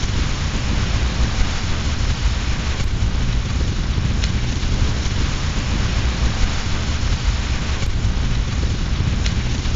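Steady rain mixed with a crackling fireplace fire, with heavy low rumble and a few faint sharp ticks.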